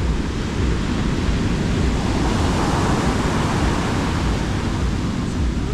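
Sea waves breaking on the beach, a wave washing in with a swell of hiss about halfway through, over a steady low rumble of wind on the microphone.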